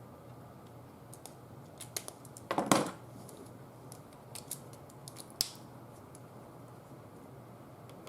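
Hands working with craft tools and paper: scattered light clicks and taps, with one short, louder scraping rustle about two and a half seconds in and a sharp click a few seconds later.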